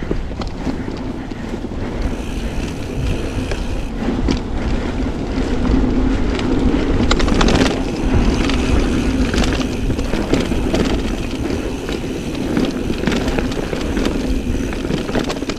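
Wind buffeting the microphone of a mountain bike camera on a trail ride, with tyres on dirt and rock and scattered clicks and rattles from the bike.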